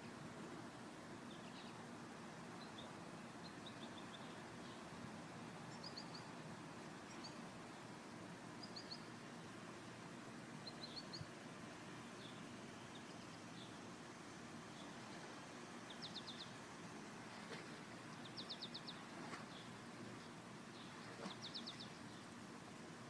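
Small songbirds chirping faintly, in short calls and quick trills of rapidly repeated high notes, the clearest trills coming about two-thirds of the way through and near the end, over a steady low background noise.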